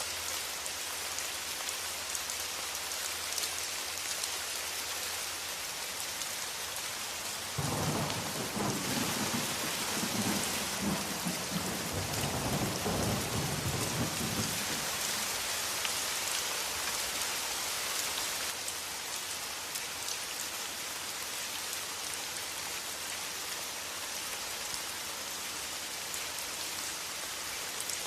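Steady rain hissing, with a roll of thunder that breaks in suddenly about a quarter of the way through, rumbles for several seconds and fades.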